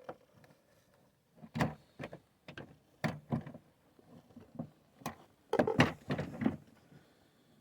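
Clicks and knocks of a plastic interior door panel and its wiring connectors being handled and clipped in, in a string of sharp taps with a denser cluster about two thirds of the way through.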